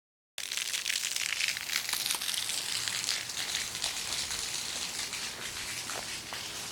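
Steady rushing hiss of flowing floodwater, with scattered faint crackles, after a brief dropout at the very start.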